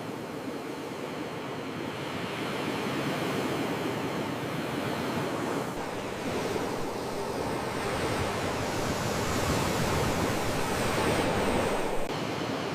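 Sea waves: a continuous rush of surf that swells through the second half, with a deep rumble, and drops off suddenly near the end.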